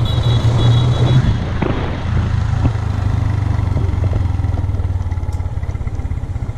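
Motorbike engine running on the move, a steady low drone with road noise over it that eases a little after about two seconds.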